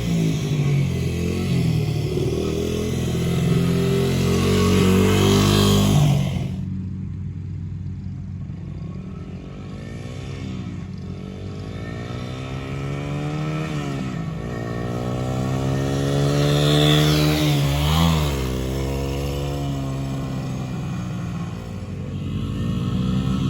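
Honda XR100R's single-cylinder four-stroke engine under way on a dirt bike: loud and close for about six seconds, then after a sudden cut farther off, its pitch repeatedly climbing and falling as it revs and shifts through the gears. It sweeps close by about three-quarters of the way through, the pitch dropping sharply as it passes.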